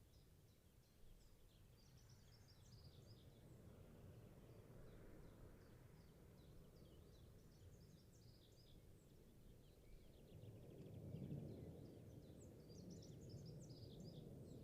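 Near silence: faint birds chirping in short repeated calls over a low, even background rumble.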